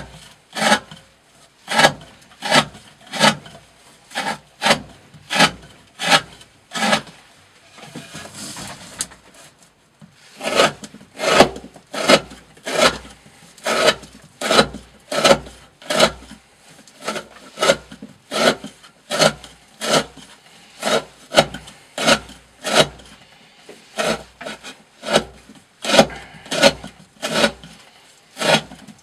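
D2-steel knife blade with a thin 40° edge slicing through thick 20 mm rope, one sharp cut after another at about three cuts every two seconds. The cuts pause for about three seconds a third of the way in, with only faint rustling.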